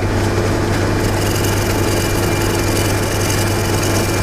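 Wood lathe motor running steadily with a constant hum. About a second in, a gouge held on its side begins a light shear cut on the spinning wood, adding a steady hiss.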